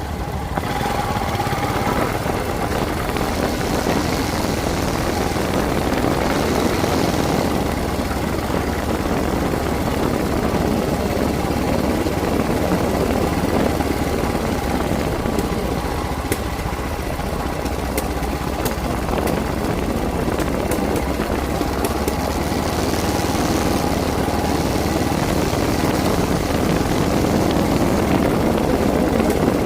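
Motorcycle engine running steadily while under way, a low, even engine note with a continuous noisy rush over it.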